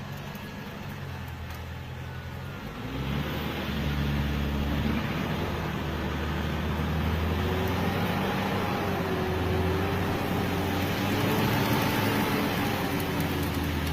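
Pickup truck engine running, picking up revs and getting louder about three seconds in, then pulling steadily.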